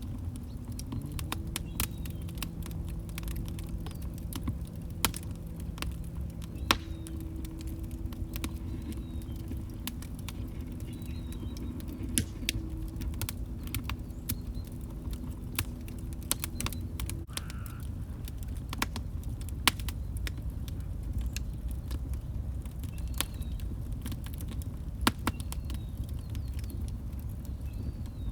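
Log fire crackling, with irregular sharp pops over a steady low rumble of burning. A few pops stand out louder than the rest. A faint steady low tone runs through the first half and stops a little past halfway.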